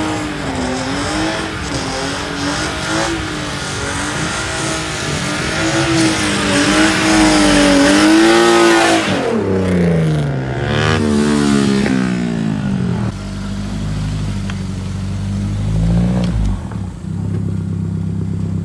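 BMW E36 3 Series engine held at high revs through a smoky burnout, its note wavering, then swinging up and down in several rev sweeps. Near the end a different car's engine, a Mk2 Volkswagen Jetta, runs lower and steadier with one short rev blip.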